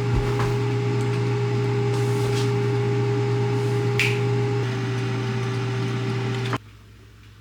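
Microwave oven running with a steady hum and a few light clicks, then shutting off abruptly about six and a half seconds in.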